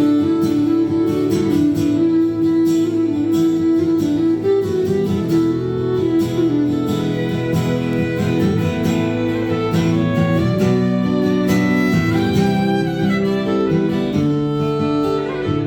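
Instrumental break in a country song: a fiddle plays the melody over strummed acoustic guitar.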